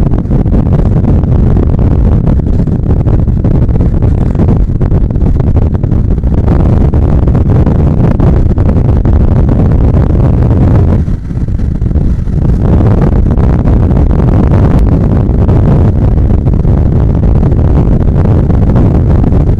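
Bajaj Pulsar 150 single-cylinder motorcycle running on the road under way, mixed with wind buffeting the microphone; the loudness dips briefly about eleven seconds in.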